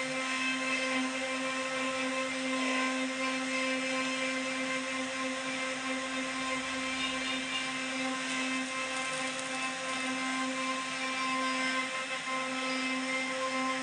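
CNC router spindle running with a steady whine while carving wood, over a constant hiss of cutting noise.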